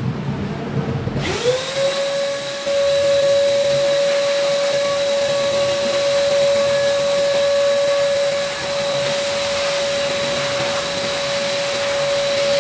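A small high-speed electric motor with a fan switches on about a second in, its whine rising quickly to a steady pitch, then running steadily with a loud rush of air.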